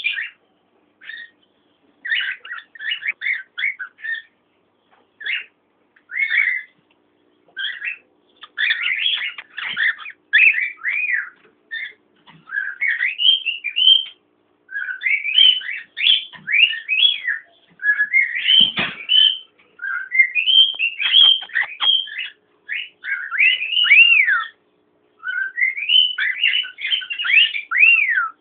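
Cockatiels whistling and chirping in a run of short phrases, with notes that glide up and down in pitch and brief pauses between phrases.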